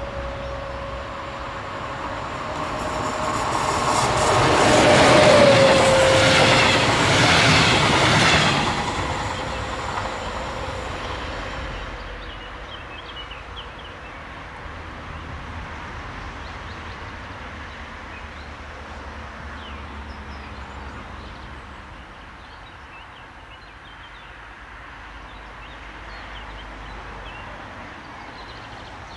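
DB class 143 electric locomotive and its double-deck regional train passing close by with wheels rattling on the rails, loudest a few seconds in. A steady whine from the locomotive dips slightly in pitch as it goes past. The train's sound then fades away as it recedes.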